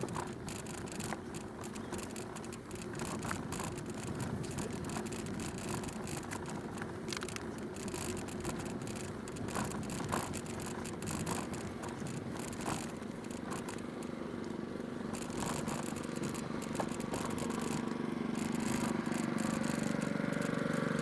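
Bicycle rolling along a gravel canal towpath: steady tyre noise with scattered clicks, scrapes and rattles. Over the last few seconds an engine grows louder.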